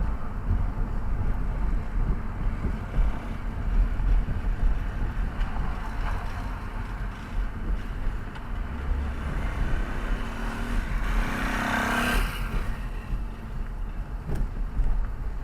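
Road and engine noise inside a moving car: a steady low rumble, with a louder rushing swell that builds and fades about twelve seconds in.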